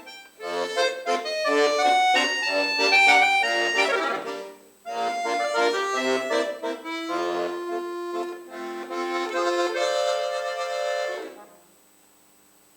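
Solo accordion played by a young child: quick chordal passages, then long held chords that cut off a little before the end, leaving faint room tone.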